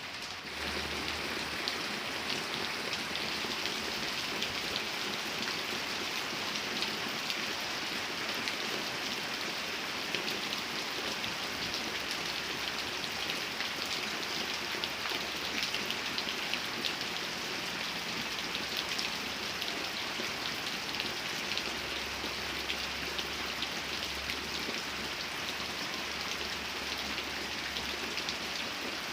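Steady rain falling: a dense, even hiss with many small drop ticks, stepping up a little in level about half a second in.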